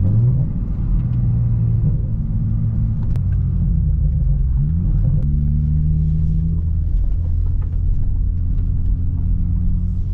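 Toyota GR Supra (MK5) with its turbocharged B58 inline-six engine running under way, a steady low drone whose pitch climbs briefly twice, near the start and about halfway through.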